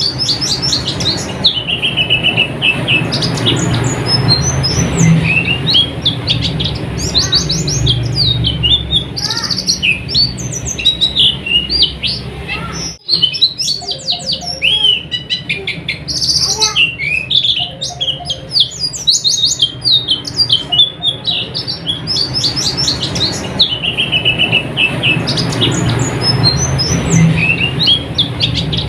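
White-eye (pleci) singing a continuous stream of rapid, high chirping and trilling phrases, with a momentary break about halfway.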